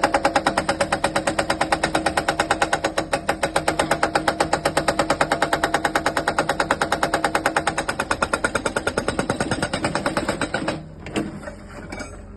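Excavator-mounted hydraulic breaker hammering rapidly at about eight blows a second, stopping about eleven seconds in, followed by a few quieter knocks.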